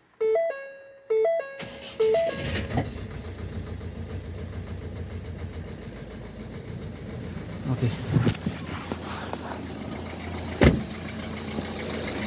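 Ford C-Max dashboard chime sounds three times as two-note tones, then the replacement 2-litre diesel engine starts about two seconds in and settles into a steady idle, its flexi exhaust pipe not yet connected. A few clatters come near the end, then one sharp knock.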